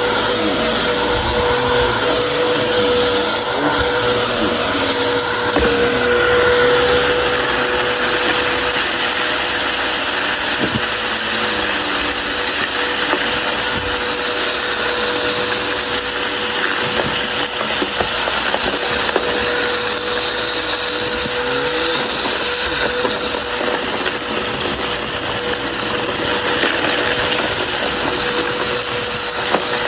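Vacuum cleaner running with a steady whine and a constant rushing hiss, with scattered clicks and crackles of crunchy debris being sucked up. The hiss shifts slightly about six seconds in.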